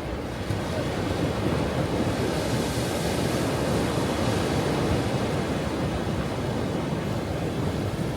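Ocean surf breaking on a shore: a steady low rumble of waves, with one wave swelling into a brighter hiss a few seconds in and then easing back.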